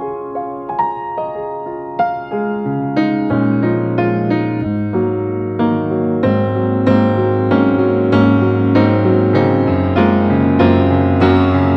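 Background piano music: struck notes in a gentle melody, with a low bass line coming in about three seconds in and the music growing gradually louder.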